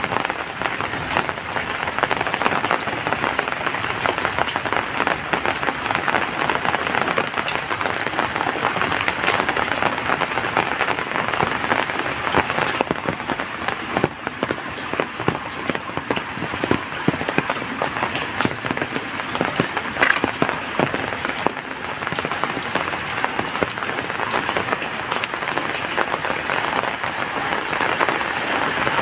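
Heavy rain falling steadily, a dense patter of countless raindrops hitting surfaces.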